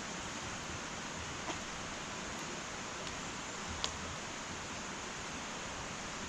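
Wood fire burning in an irori sunken hearth: a steady hiss with two sharp crackles, one about a second and a half in and a louder one past the middle.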